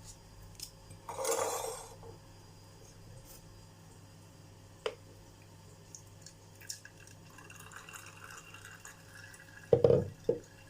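Blended lentil-and-water batter being poured and strained through a sieve: a short pouring rush about a second in, then faint trickling and dripping. A couple of sharp knocks near the end.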